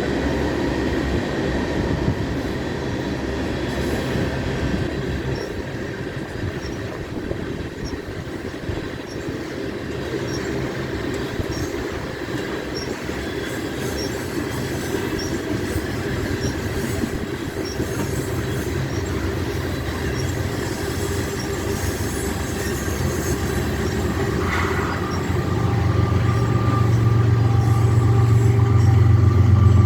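Long freight train's cars rolling past with a steady rumble and a thin, high squeal of steel wheels on the rail. Near the end a deep engine drone swells and grows louder.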